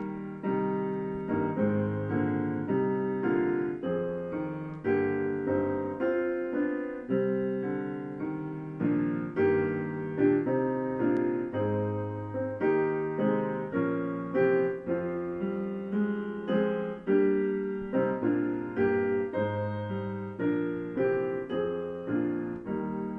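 Solo piano playing chords and a melody at an unhurried, steady pace, each note struck and left to ring.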